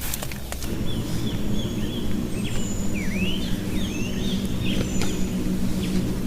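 Rain falling with a steady low rumble. Over it comes a quick run of chirping calls, rising and falling, from about a second in until near the end, with a few short high whistles and sharp ticks.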